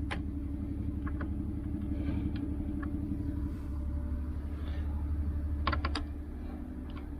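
Scattered small clicks and taps of a driver bit being worked into a mud-clogged screw head, a few apart and then a quick cluster near the end, over a steady low rumble.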